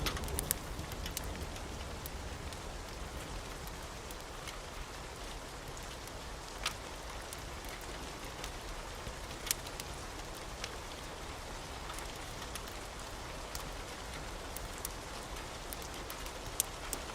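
Wood fire burning in a fireplace: a steady soft hiss with occasional sharp crackling pops, a handful across the stretch.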